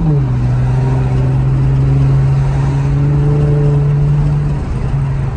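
Car engine droning under way, heard from inside the cabin. Its pitch drops sharply as the revs fall right at the start, then holds steady, and it wavers near the end.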